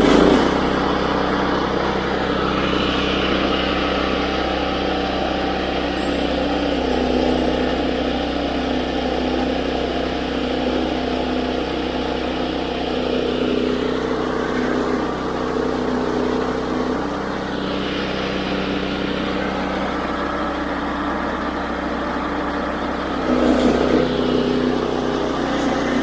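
Woodland Mills HM122 sawmill's 9.5 hp engine running steadily at speed while the band blade cuts a walnut log. Its note shifts slightly under load, and it gets a little louder near the end.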